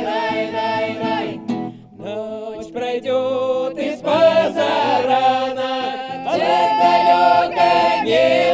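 Music: a choir of voices singing in long held harmonies, with a short break about two seconds in before the singing resumes.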